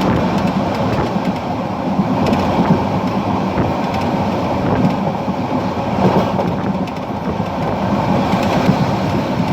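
Passenger train running along the track at speed, with a steady rumble of wheels on rail and a few faint clicks from rail joints.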